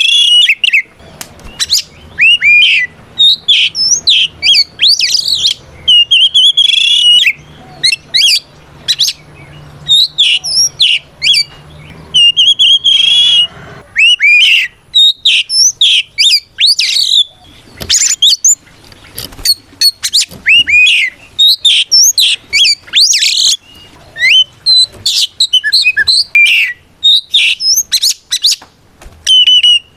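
Oriental magpie-robin singing a loud, rapid fighting song: varied whistled phrases, sweeping notes and sharp chips in quick succession with only brief gaps. It is a challenge song that calls out rival magpie-robins.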